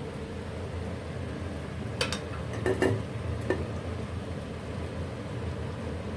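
A few sharp metallic clinks of a utensil against a cooking pot, clustered around the middle, over a steady low background hum.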